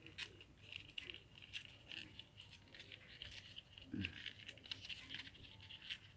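Faint, irregular crinkling and ticking of cigarette-pack cardboard and paper being handled and folded by hand, with a small knock about four seconds in.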